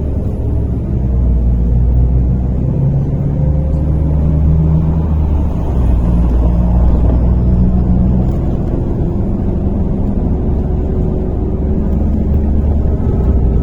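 Inside a MAZ-103 city bus under way: steady low engine and road rumble, with the engine note shifting up and down as the bus drives.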